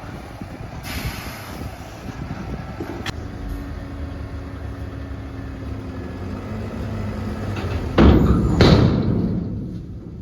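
Tata Prima dump truck's diesel engine running, with a short air hiss about a second in and a steady whine through the middle. A loud rushing burst of noise comes near the end.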